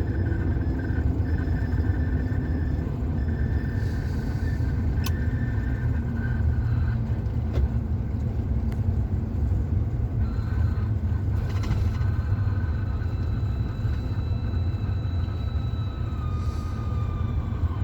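Steady low road rumble and engine drone inside a police car's cabin while it drives at highway speed, with a faint thin whine drifting slowly in pitch.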